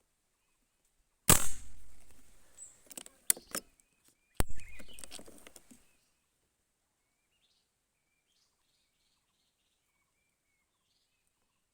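Two gunshots from a hunting gun about three seconds apart. Each cracks sharply and then dies away over about a second, with a few small clicks between them. Faint bird chirps follow.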